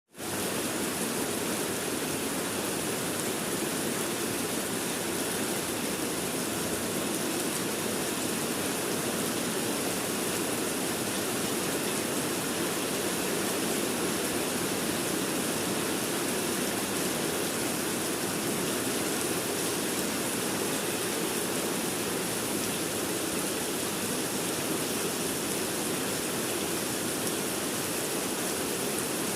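Rain falling steadily, an even hiss with no single sounds standing out.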